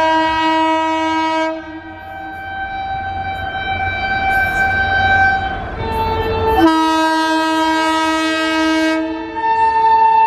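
Vande Bharat Express trainset sounding its multi-tone horn in long held blasts, the chord changing about a second and a half in and again about six and a half seconds in, over a low rumble of the oncoming train.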